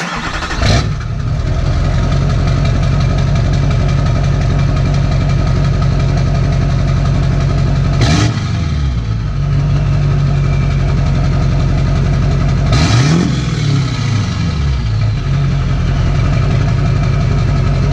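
LB7 Duramax 6.6-litre V8 turbodiesel running at idle, revved briefly right at the start and then revved up and back down twice, about halfway through and again a few seconds later.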